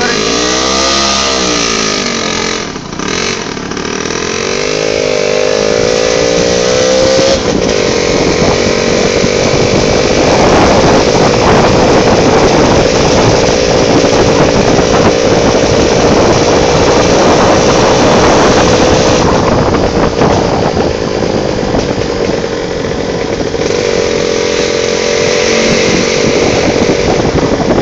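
Motorcycle engine running under way, its pitch dipping and rising over the first seven seconds, then holding fairly steady, with a broad rushing noise throughout.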